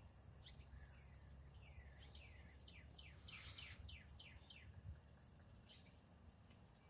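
Faint songbird song: a run of about ten quick chirps, each sweeping downward in pitch, starting about a second and a half in and ending a little before five seconds, over a faint low rumble.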